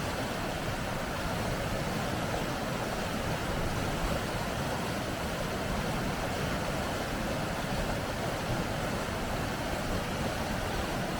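Rapids: water rushing over rocks, a steady, even roar with no breaks.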